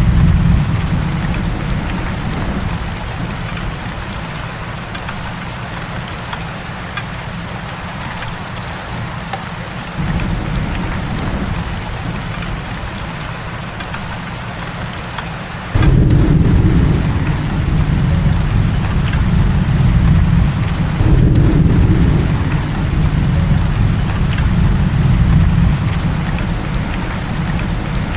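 Heavy rain pouring steadily, with a deep rumble of thunder underneath. The rumble fades after a few seconds, comes back suddenly about 10 s in, and swells strongly again about 16 s in.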